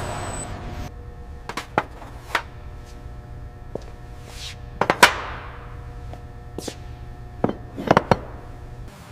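Assembly-shop ambience: a steady machinery hum under a scattering of sharp tool clicks and knocks, about nine in all, the loudest about five seconds in. A whirring hiss cuts off just under a second in.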